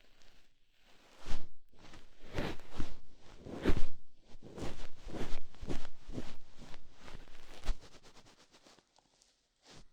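Ear-cleaning tool scratching and rubbing inside a microphone's ear, in a run of quick, uneven strokes about one or two a second, dying away near the end.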